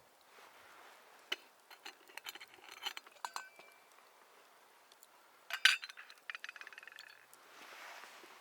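Camp cooking gear being handled: a string of light clinks, one louder clink a little past the middle followed by a quick run of small ticks, then a short soft rushing noise near the end.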